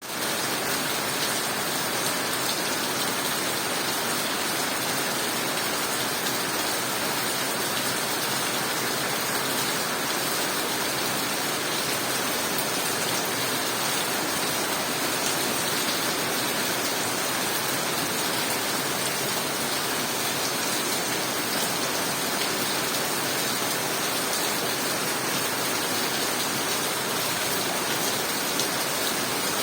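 Rain falling steadily, an even hiss that neither builds nor breaks.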